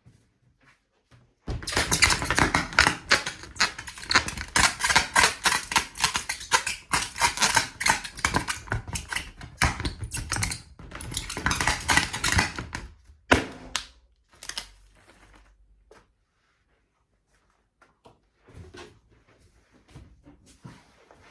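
Rubber balloon being handled, giving a rapid, irregular run of crackles and squeaks for about eleven seconds, then one sharp snap, then faint scattered handling noises.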